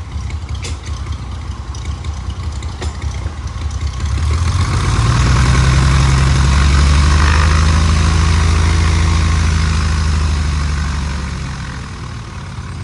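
Light aircraft piston engine running at idle. It grows louder for several seconds from about four seconds in, then eases back down near the end.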